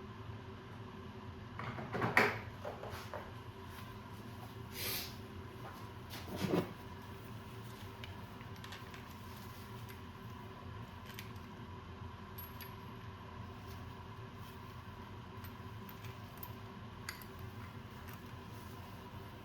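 A few brief metallic clinks and clatters, the loudest about two seconds in and two more around five and six and a half seconds, then faint scattered ticks over a steady room hum.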